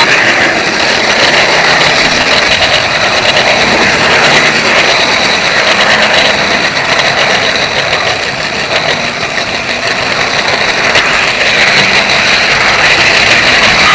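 Model train running on the layout's track: a loud, steady whirring of the small electric motor and wheels on the rails.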